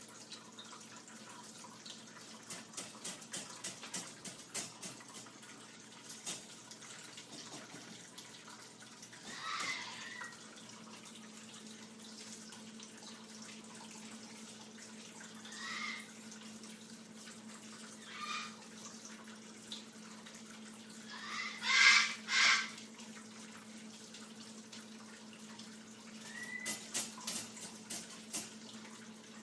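A pet parrot making a few short, soft calls, the loudest a double call about three-quarters of the way through, with light clicks between them over a steady low hum.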